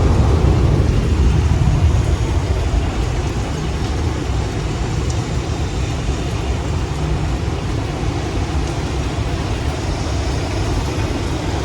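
Strong storm wind roaring, buffeting the microphone with a loud, gusting low rumble.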